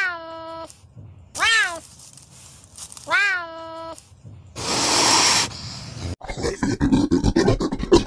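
Serval giving three meowing calls about a second and a half apart, each sliding down in pitch and then holding steady. Then comes about a second of breathy, hiss-like noise, followed by quick irregular clicks and rustles.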